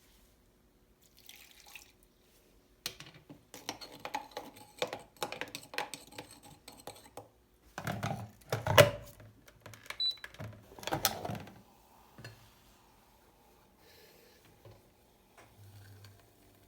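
Kitchen-sink sounds: dishes and utensils clinking and knocking, with short bursts of running tap water, loudest about eight and eleven seconds in.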